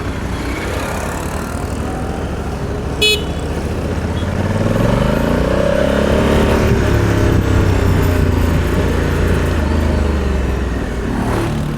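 Road traffic: a short vehicle-horn toot about three seconds in, then a vehicle engine whose pitch climbs and then falls away over several seconds, the loudest sound here.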